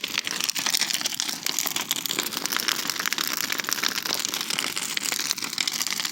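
Large bonfire burning, crackling steadily with many quick pops.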